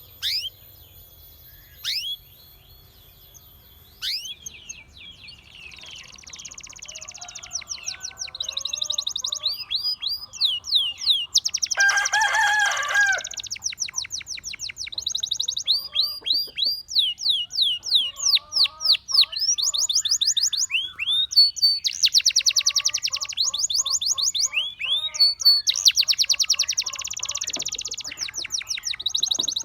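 Gloster canary singing: a few single chirps, then from about five seconds in a long song of fast trills and rapid runs of repeated falling notes. A brief louder, lower note comes about twelve seconds in.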